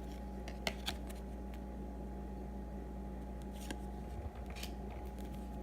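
Baseball trading cards handled by hand: a few light clicks and short rustles as cards are slid and flipped, over a steady low hum.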